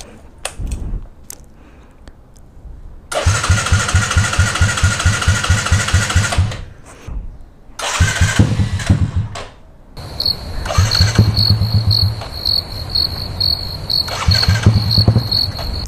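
Custom Bajaj Boxer 150 cafe racer's single-cylinder engine being cranked for about three seconds, then catching and revving briefly, and running from about ten seconds in as the bike pulls away. A high beep repeats about twice a second through the last few seconds.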